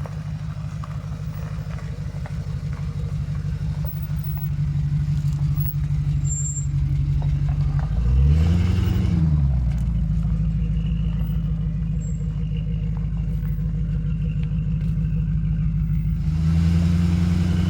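2003 Land Rover Discovery 2 engine running steadily at low revs while driving. About eight seconds in it revs up and back down, and near the end the revs rise again.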